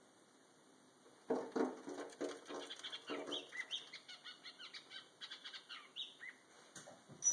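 A bird flapping its wings against window glass in rapid, irregular strokes, starting about a second in, with a few short chirps, as it tries to get into the house.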